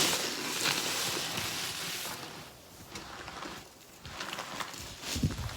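A snow shovel scraping and pushing through snow: one long loud scrape over the first two seconds, then quieter scraping, with a few low thumps near the end.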